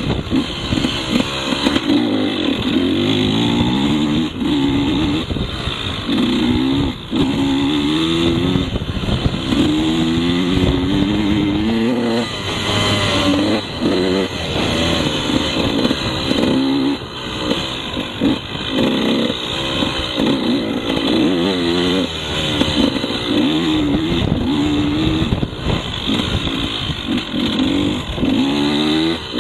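KTM 150 two-stroke dirt bike engine being ridden hard, its revs climbing and dropping over and over as the throttle is worked.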